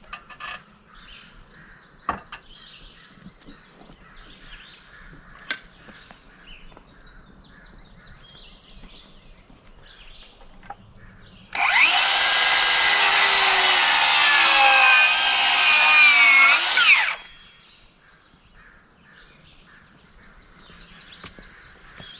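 A handheld power tool runs for about five and a half seconds, starting abruptly, its pitch wavering slightly and rising just before it stops. Before it there are a few faint knocks.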